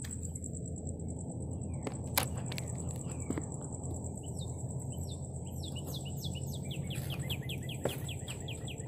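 Birds chirping: a run of short downward chirps that speeds up into a quick series near the end. Underneath are a steady high-pitched whine, a low outdoor rumble and a few sharp clicks.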